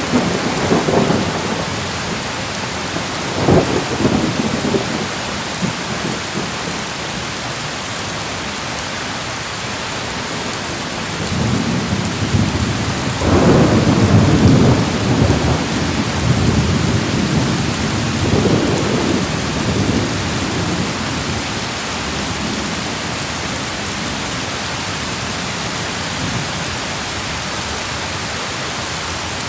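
Steady heavy rain with rolling thunder: a rumble at the start, a short one a few seconds in, and a long rolling peal building from about 11 s to 17 s, with a smaller one after it; only rain in the last ten seconds.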